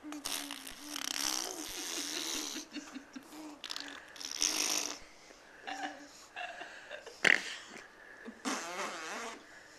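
A baby blowing raspberries: a string of buzzing, sputtering lip trills with short pauses between, the loudest a brief sharp burst about seven seconds in.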